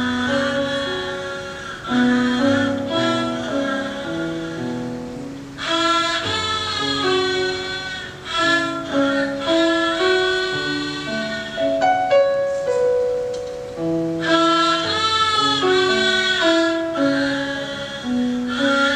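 Haegeum, the Korean two-string fiddle, playing a melody in long bowed notes with vibrato over a lower held accompaniment. The melody swells louder about a third of the way in and again about three quarters of the way through.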